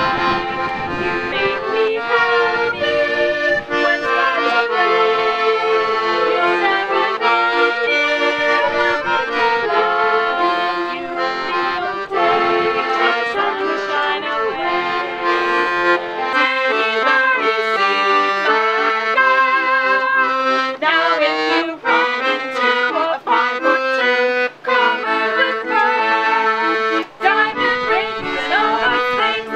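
Accordion playing a tune in sustained chords. The deep bass notes drop out a little past halfway and come back near the end.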